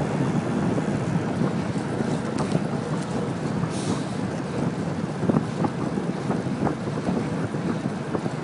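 Wind rushing over the microphone of a bicycle riding at speed, with steady tyre and road noise and scattered small clicks and rattles from the bike.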